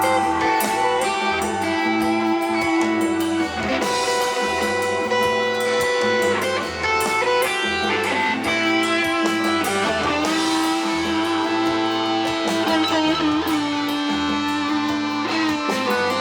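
A live rock band playing an instrumental passage: electric guitar, long held keyboard notes, a bass line and drums.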